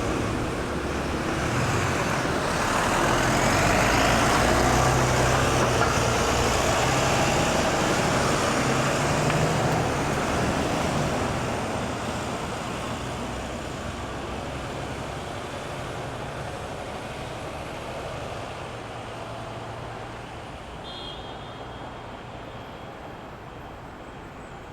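Road traffic at a roundabout. A passing vehicle's engine rumble and tyre noise swell to their loudest about four to ten seconds in, then fade into a quieter, steady traffic hum. A brief high squeak comes near the end.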